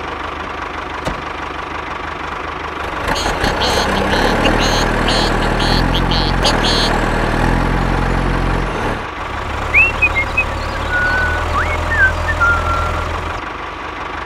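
Tractor engine running, fuller and louder for a few seconds in the middle, with a rattling clatter as it builds. A few short high chirps near the end.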